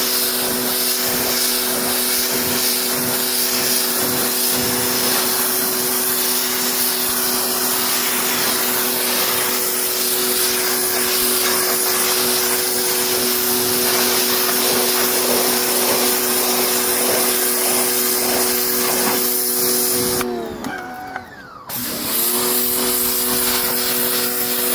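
Electric pressure washer running, its motor humming steadily under the hiss of the water jet spraying on seat fabric. About 20 seconds in the trigger is released: the motor winds down and stops. It starts up again about two seconds later.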